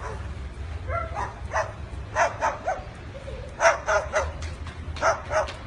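Short, high, yapping barks in quick pairs and threes, over a steady low hum.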